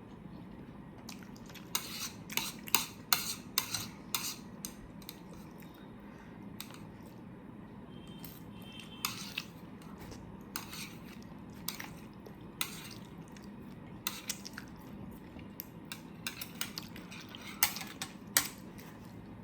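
Utensils clinking and tapping against dishware in a series of sharp clicks, a quick run of them about two seconds in, then scattered single taps.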